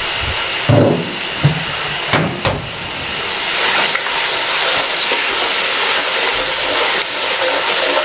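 Onion and ginger-garlic paste sizzling as it fries in ghee in an aluminium pot, with a steel ladle knocking and scraping against the pot a few times in the first three seconds. This is the frying stage in which the pastes' water is cooking off.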